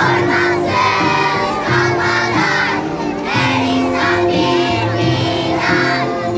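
A group of children singing together over music, with held notes underneath the many voices.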